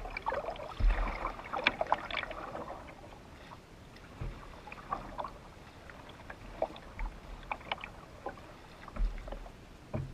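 Canoe paddling: water splashing and dripping with the paddle strokes, busiest in the first few seconds, with a few dull low thumps.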